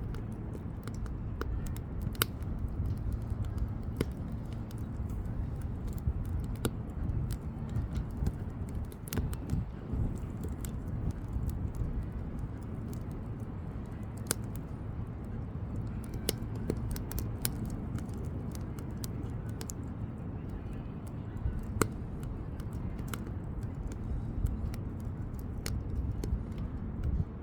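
Wood bonfire burning steadily: a low steady rush of flame with irregular sharp crackles and pops from the burning firewood.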